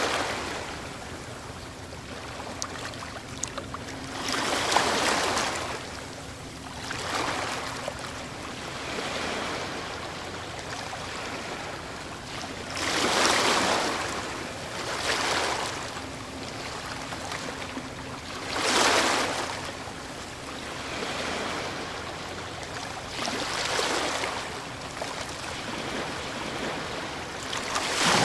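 Ocean waves breaking on a shore: a steady wash of surf with a wave surging and fading every few seconds, the strongest breaking about five, thirteen and nineteen seconds in and again at the end.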